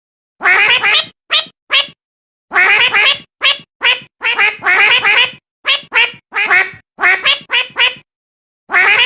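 A cat meowing over and over in a rapid series of harsh, wavering calls, some short and some drawn out, with brief gaps between them.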